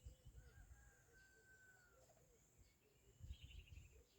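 Faint bird calls, mostly quiet: one long, slightly falling whistled note, then a quick trill of repeated notes just past three seconds in, with some low rumble at the same time.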